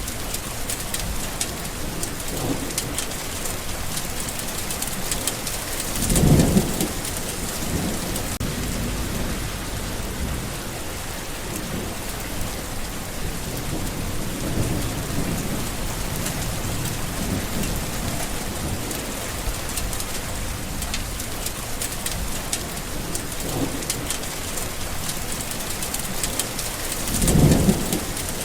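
Steady rain falling, with low thunder rumbling through it; two louder rolls of thunder swell up, one about six seconds in and one near the end.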